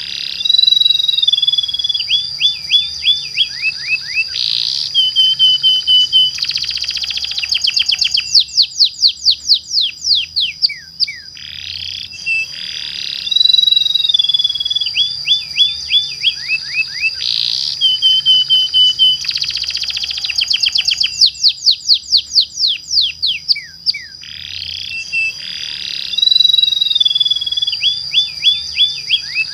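Domestic canary singing a long, varied song of trills, fast downward sweeps and rapid rolled notes over a steady high tone. The same sequence of phrases repeats about every twelve seconds.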